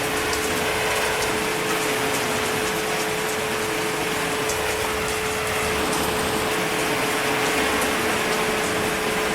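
Steady heavy rain falling, an even rushing hiss with scattered drop ticks. A faint steady hum sits underneath.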